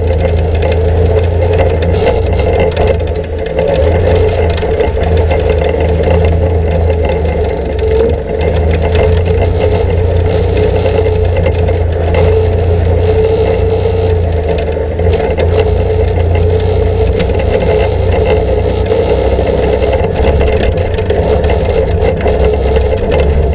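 ATV engine running steadily under throttle while the machine rides over rough ground, with frequent knocks and rattles from the chassis and suspension.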